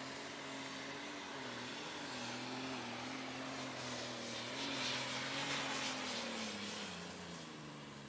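Light super stock pulling tractor's turbocharged, alcohol-burning engine running hard under load, with a thin high turbo whine above it. The engine note wavers, then drops steadily from about six seconds in as the tractor bogs and slows at the end of a short pull.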